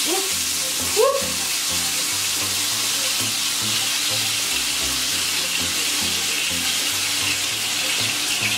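Food sizzling steadily in a hot frying pan as it is scraped in off a cutting board, an even hiss, with the thumping bass line of background music underneath.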